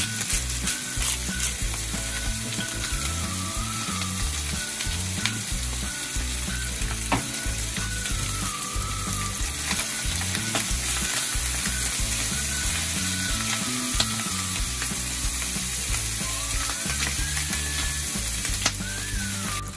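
Chicken skin sizzling as it fries in a nonstick frying pan, with the scrape and click of wooden chopsticks stirring it now and then. The skin is being stir-fried until browned, giving off its fat.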